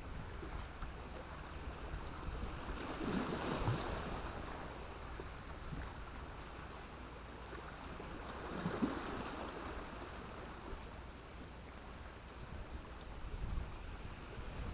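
Sea waves breaking and washing up a shore of black stones and sand, swelling twice: a few seconds in and again past the middle.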